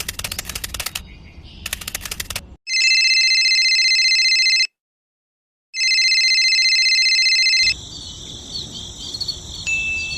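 A rapid rattling clatter of clicks, then a telephone ringing twice: two steady, high electronic rings of about two seconds each, a second apart. A fainter steady high tone with small chirps follows near the end.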